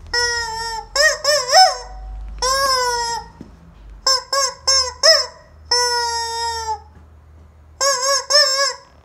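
Rubber squeaky chicken toy squeezed over and over, squawking: long drawn-out squawks alternate with quick runs of three or four short squeaks.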